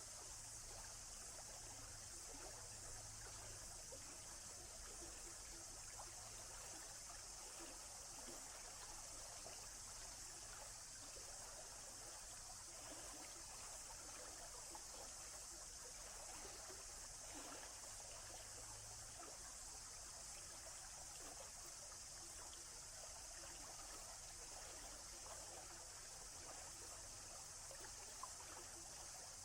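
A small forest stream trickling faintly and steadily, over an even high hiss.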